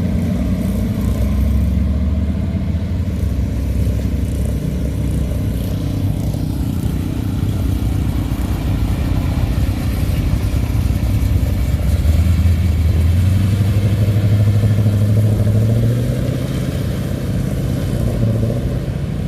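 Hot rods driving slowly past with a low, steady exhaust note. About twelve seconds in, one engine's pitch rises as it speeds up, then drops back near the end.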